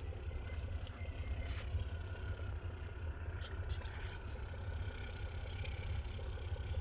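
Diesel railway engine running steadily with a low rumble, with scattered light clicks.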